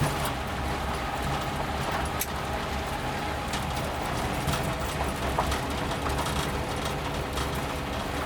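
Suzuki Jimny's freshly overhauled three-cylinder engine running steadily as it drives a rough forest track, with a few short knocks and rattles from the bumpy surface.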